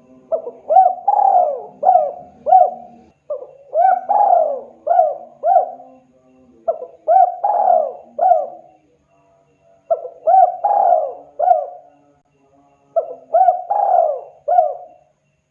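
Spotted dove (tekukur) cooing: five phrases of about five rising-and-falling coos each, with short pauses between phrases.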